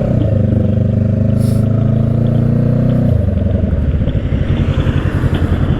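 Motorcycle engine running under load with a steady note, which drops away about three seconds in to a lower, rougher rumble.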